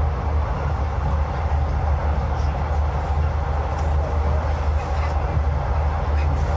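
Passenger train running along the track, heard from inside the carriage: a steady low rumble with faint clicks.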